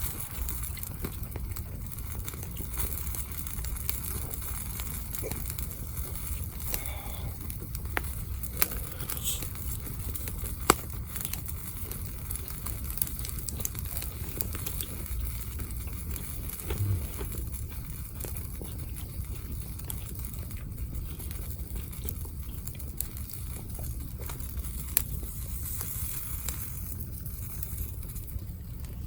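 Wood campfire crackling, with a few sharp pops over a steady low rustle.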